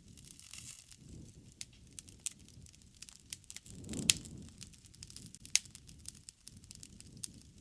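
Wood fire crackling: irregular sharp pops and snaps over a soft low rumble of flame, with one louder pop about four seconds in.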